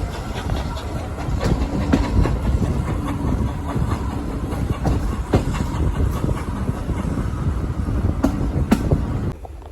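Heritage steam railway train running along the track: a steady rumble with irregular clicks of the wheels over the rail joints, dropping away suddenly just before the end.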